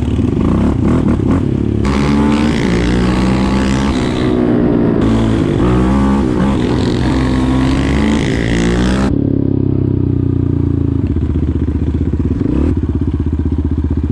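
Small bike engines running and revving up and down, several pitches rising and falling over one another.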